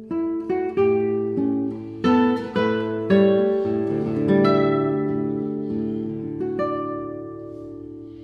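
Background music: plucked guitar notes and chords, each note ringing and dying away, with a strong pluck about two and three seconds in and the sound fading near the end.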